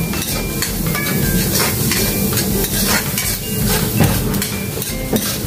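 Chopped garlic and onion sizzling in hot oil in a stainless steel wok, sautéing, while a metal ladle stirs and scrapes against the pan with repeated short clinks.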